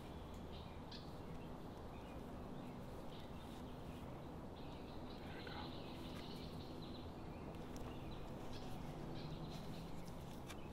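Faint outdoor ambience with distant birds chirping now and then over a low steady background hum.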